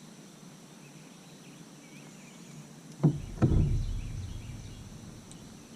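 Two dull thumps about half a second apart, the second trailing a low rumble that fades over a second or so, over a steady high insect buzz.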